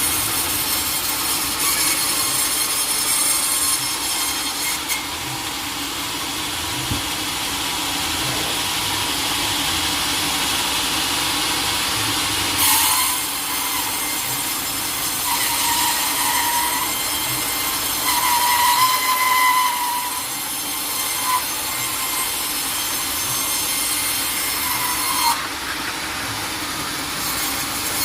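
Sawmill saw cutting lengthwise through a teak log, a steady cutting noise with a brief high whine in the middle.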